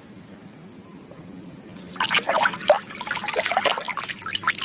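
Water splashing and trickling as a muddy toy animal is rinsed clean, starting about two seconds in after a quieter stretch.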